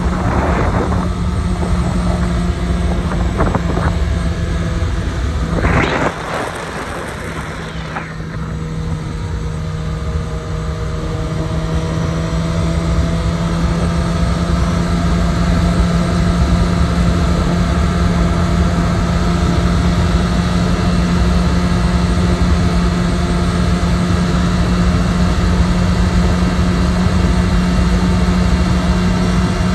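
Honda CB1000R's inline-four engine droning at highway cruising speed over a heavy wind rumble. About six seconds in a short rushing noise is followed by a drop in the sound, then the engine note climbs slowly and the sound builds back as the bike gathers speed again.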